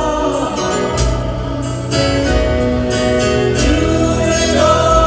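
Live gospel praise-and-worship music: voices holding sung notes over band accompaniment, with a couple of cymbal strikes.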